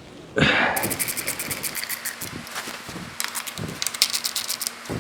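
Ratchet wrench clicking rapidly as the steering box side cover bolts are run in and lightly snugged, with a few light knocks of tool on metal.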